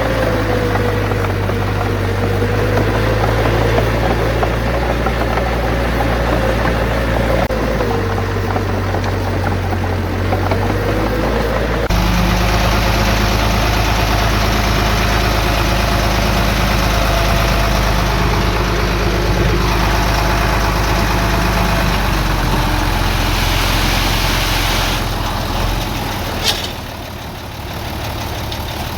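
Diesel engines of heavy earthmoving machinery running steadily, the engine note changing abruptly a couple of times, with a single sharp click near the end.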